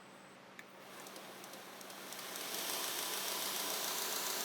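Belt grinder running a coarse 36-grit belt: its hissing machine noise swells from about a second in over roughly two seconds, then runs steady.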